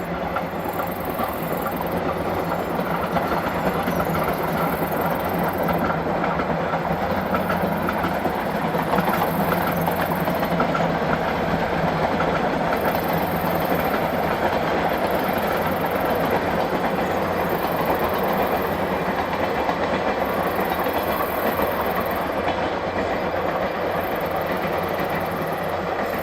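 JNR Class C57 steam locomotive No. 180 running with its passenger train, a steady rumble of wheels on the rails that swells slightly toward the middle and eases near the end.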